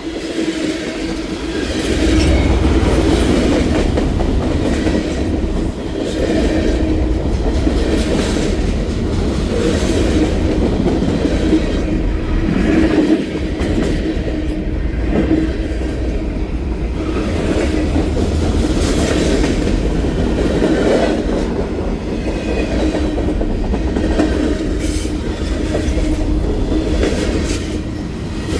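Freight train cars rolling past on the tracks, wheels clacking over the rail joints over a steady rumble.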